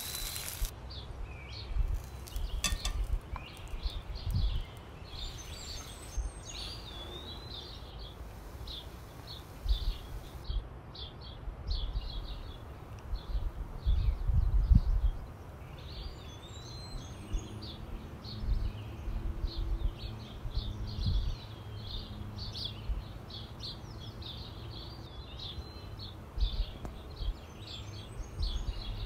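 Several small birds chirping and twittering in short, repeated phrases, over irregular bursts of low rumble, the strongest about halfway through.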